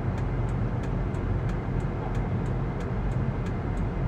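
Steady low rumble of engine and road noise heard from inside a vehicle cab cruising on a freeway.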